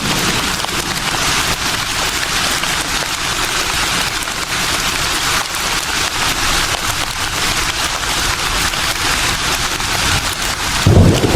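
Leaves rustling steadily in a breeze, a dense even hiss. A low gust of wind rumbles in near the end.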